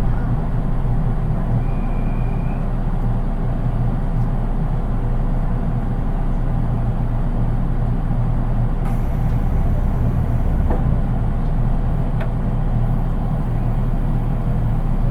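Steady running noise inside a JR 183 series electric train, heard from the unpowered KuHa 183 driving trailer car: an even rumble of wheels on rail and car body noise, without traction motor whine. A short, faint high squeal about two seconds in.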